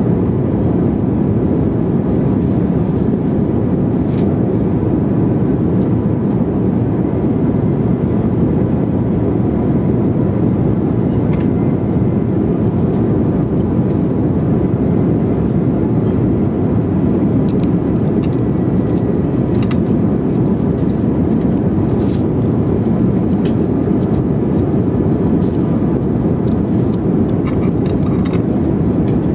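Steady low drone of an airliner cabin in flight, engine and airflow noise at a constant level, with a few faint clicks.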